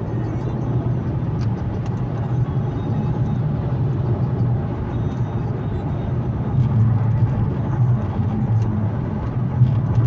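Infiniti Q70 on the move, heard from the cabin: a steady low drone of engine and road noise under a haze of tyre rumble.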